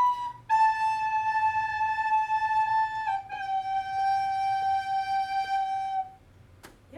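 Soprano recorder playing slow held notes stepping down, B then A then G, each held about three seconds. The last note stops about six seconds in.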